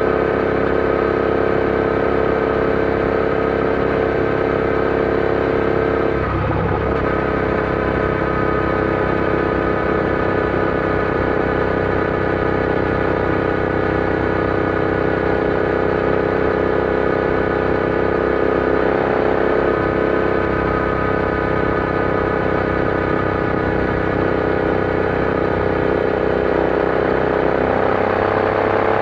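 Royal Enfield Interceptor 650's parallel-twin engine running steadily while ridden, with a brief break in the note about six seconds in and the pitch rising near the end as it speeds up.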